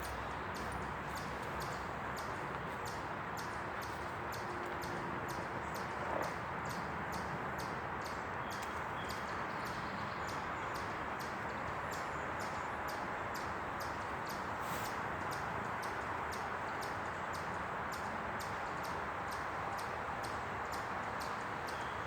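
Steady outdoor background hiss with a faint, regular high ticking, about two to three ticks a second, and a few faint chirps.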